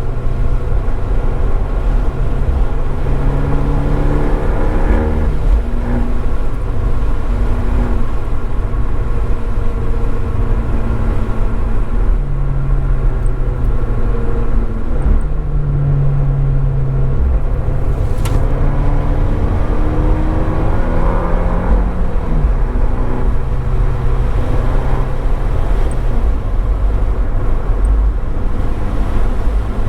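Abarth 595 Esseesse's turbocharged four-cylinder engine, heard through its Akrapovič exhaust, pulling hard under acceleration. The engine note climbs steadily, drops back at each upshift and climbs again, over constant road noise.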